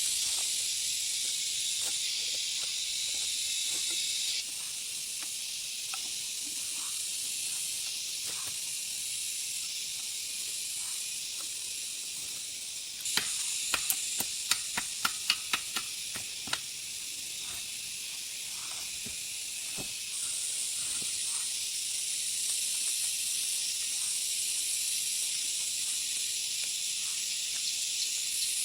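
Steady high-pitched hiss of a forest insect chorus. About halfway through comes a quick run of about a dozen sharp clicks or snaps.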